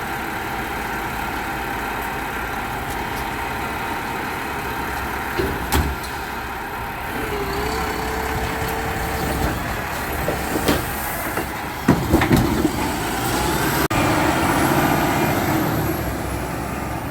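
Garbage truck engine running steadily, with a few sharp metal clanks and a brief steady whine partway through.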